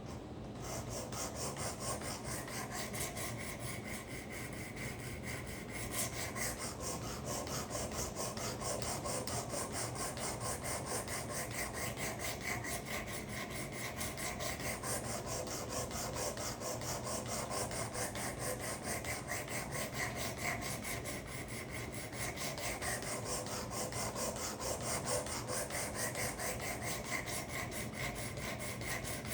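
Steel karambit blade being stroked back and forth over the abrasive of a Work Sharp guided sharpener: a steady, rapid, even scraping. The first side of the edge is being ground to raise a burr, with extra work on the broken tip.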